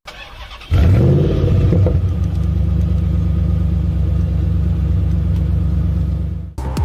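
A Lamborghini supercar engine starts about a second in, briefly rises in pitch, and settles into a steady run. It cuts off shortly before the end.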